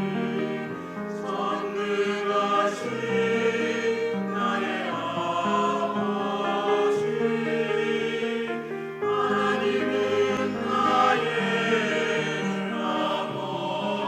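Church choir singing an anthem in sustained chords that change every second or so.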